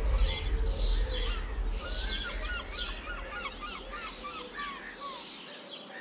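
Birds chirping, with a quick run of short whistled notes in the middle, over soft ambient music. A low rumble underneath fades out near the end.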